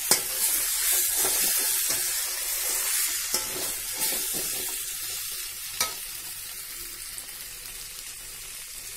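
Spiced brinjal pieces sizzling in oil in a metal pan while a metal spatula stirs and scrapes them, with a few sharp clacks of the spatula against the pan. The sizzling is strongest at first and dies down over the later seconds.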